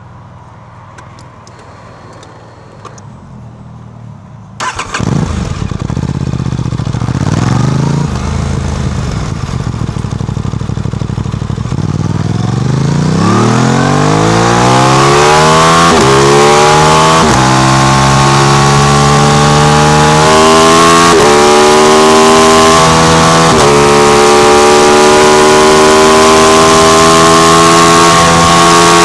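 Aprilia RS660's parallel-twin engine, fitted with an SC Project exhaust, starting up suddenly about five seconds in after a quiet stretch, revving up and down a couple of times, then pulling away. The engine's pitch rises steadily and levels off into a loud, steady run.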